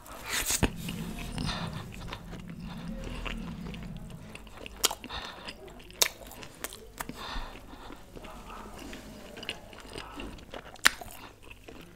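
Close-miked eating: a bite into a piece of chicken, then chewing with wet mouth sounds. Several sharp clicks are heard along the way, the loudest near the end.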